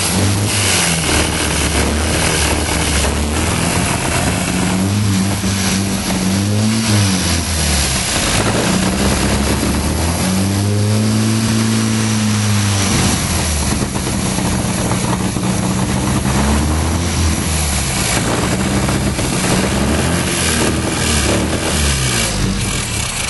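Mini Marcos's BMC A-series four-cylinder engine running and being revved up and down repeatedly, with one longer, higher rev about halfway through.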